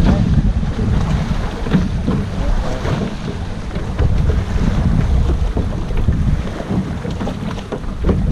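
Wind buffeting the microphone aboard a small sailboat, a gusting low rumble, with water splashing against the hull.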